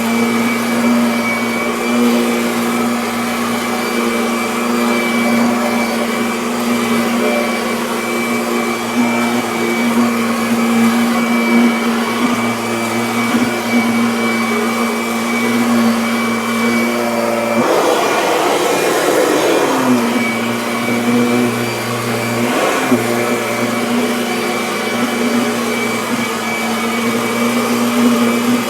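Kirby Avalir upright vacuum cleaner running steadily while vacuuming carpet, a constant motor hum with a whine. About eighteen seconds in the steady tone falls away for about two seconds under a rush of air noise, and it briefly breaks again a few seconds later.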